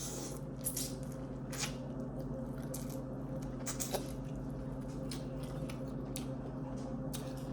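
Wet squishing of butter-sauced shrimp being handled and eaten, with scattered short crackles, over a steady low hum.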